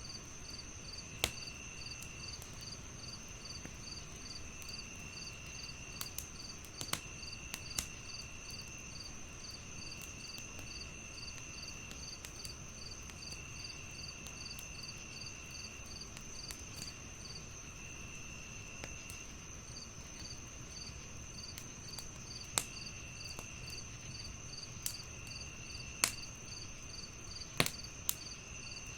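Night insects chirping in layers: a steady high ringing, a quick pulsed chirp about three times a second, and a lower trill that comes in bursts of a second or two. Underneath, a wood fire crackles with a low rumble and a handful of sharp pops.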